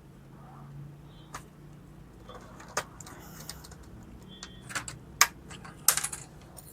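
Irregular sharp plastic clicks and taps as a laptop's case is handled and opened, with a cluster of louder snaps about five seconds in, over a faint low hum.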